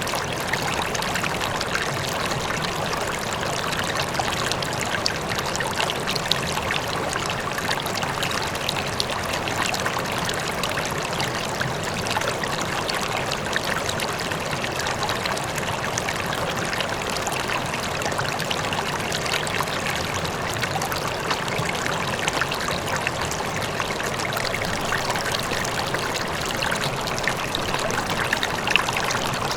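A river flowing steadily, with continuous rushing and trickling water and a faint waterfall in the distance.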